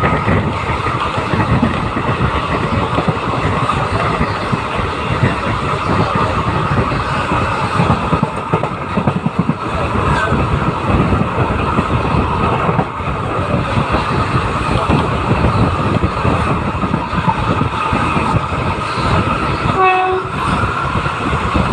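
Indian Railways express passenger train running at speed, a steady rumble with wheels clattering over the rail joints. A short horn blast sounds near the end.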